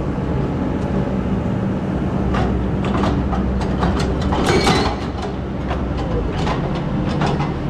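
Excavator's diesel engine running steadily, with clusters of sharp knocks and clatters from the digging work.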